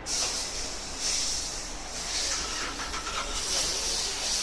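A loud hiss that starts suddenly and swells and eases in slow waves, over a low steady hum.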